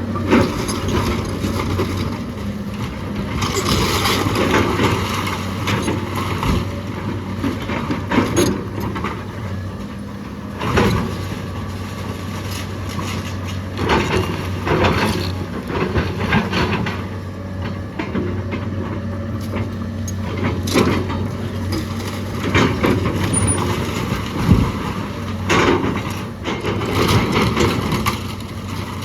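Diesel engine of heavy demolition machinery running steadily, with repeated crashes, cracks and crunches of rotten timber and debris breaking and falling as the old house is torn down.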